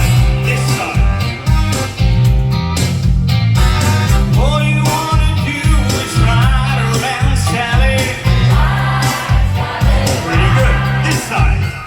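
Live band performing a song with a singer's voice over a steady drum beat.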